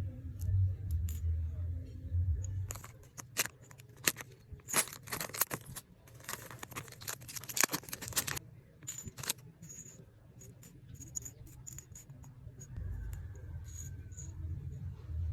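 Plastic packaging being handled and torn open: a dense run of crinkling and crackling for about five seconds in the middle, then scattered clicks. A low rumble sits underneath at the start and near the end.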